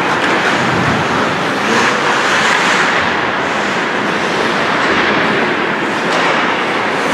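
Ice hockey play: steady scraping of skates on the ice, with a few faint knocks of sticks or puck.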